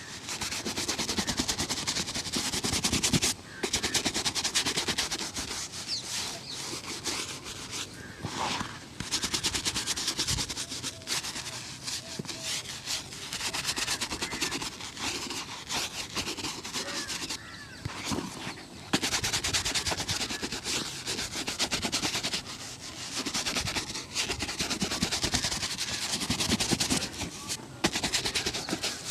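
Shoe being polished by hand: quick, rasping rubbing strokes over the shoe, in runs of several seconds with short pauses between them.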